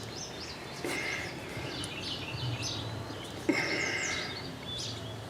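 Small birds chirping repeatedly in short calls over steady outdoor background noise, with two louder swells of noise about a second in and about three and a half seconds in.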